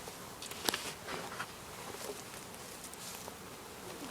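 A honeybee swarm buzzing, a steady dense hum of many bees, with a few short clicks, the sharpest about two-thirds of a second in.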